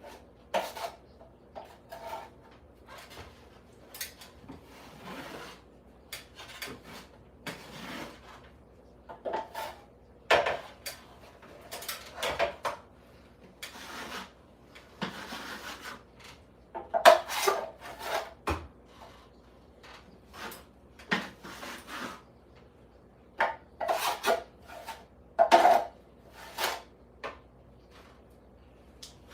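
Irregular scrapes, rubs and light knocks of hand work, one every second or so.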